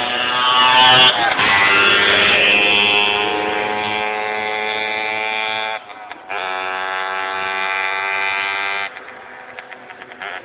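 Car engine revved hard and held at high revs, dropping off briefly about six seconds in and picking straight back up, then falling away near the end.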